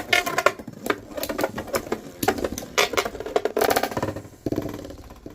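Two Metal Fight Beyblades, Galaxy Pegasus and Lightning L-Drago, spinning and clashing in a Super Vortex Stadium: rapid clacking hits over a spinning whir. The hits thin out after about four and a half seconds as Galaxy Pegasus is knocked out.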